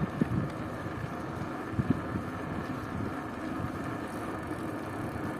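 Wind rushing over the microphone while riding, with a steady low rumble and two low thumps, one just after the start and one about two seconds in.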